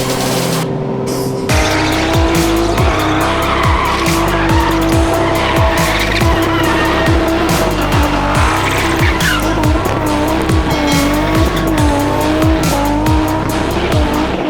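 Spin car at full revs, engine note wavering up and down, with its tyres squealing and skidding. A music track with a heavy, steady beat of booming kicks about twice a second plays over it, starting about a second and a half in.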